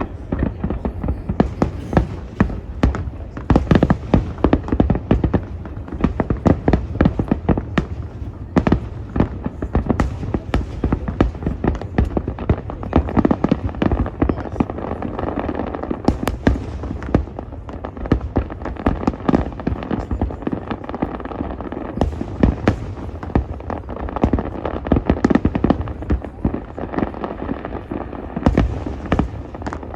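Aerial fireworks display: a dense, continuous barrage of bangs and booms, several a second, over a low rumble.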